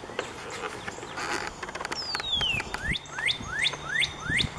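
A songbird singing: one long falling whistle, then a quick series of rising notes, about three a second. Footsteps on asphalt can be heard under it.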